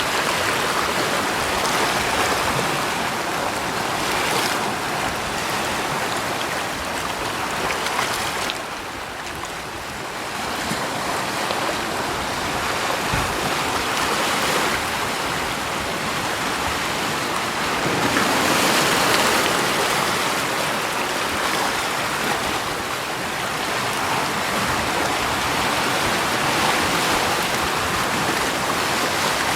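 Rushing water as a steady hiss with no distinct events. It eases about a third of the way in and swells again about two-thirds in.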